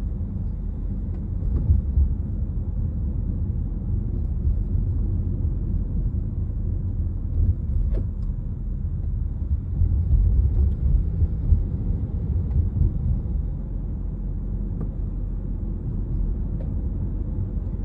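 Honda CR-V 1.5-litre turbo engine and road noise heard from inside the cabin while driving: a steady low rumble with no regular valve ticking in it.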